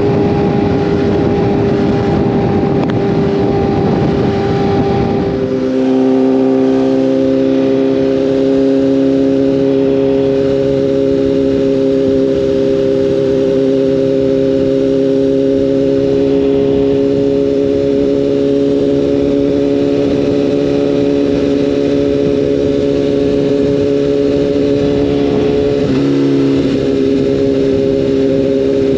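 Sport-bike engine running at a steady cruise under wind rush. About five seconds in, the engine note jumps to a new steady pitch and the rush eases. Near the end the note briefly wavers, then settles again.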